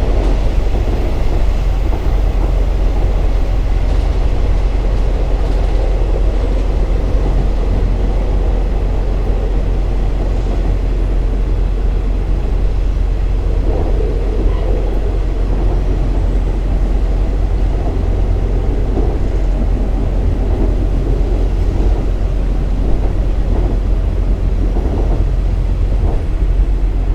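KiHa 47 3500-series diesel railcar under way, heard from on board: a steady, even engine and rail rumble with no breaks.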